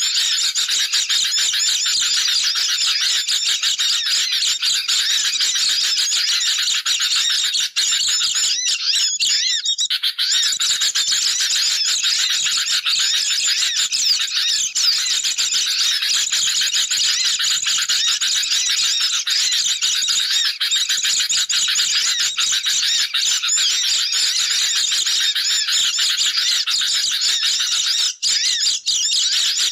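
Bird-lure recording of sooty-headed bulbul and white-eye calls: a dense, unbroken mass of high-pitched chirping and twittering from many birds at once.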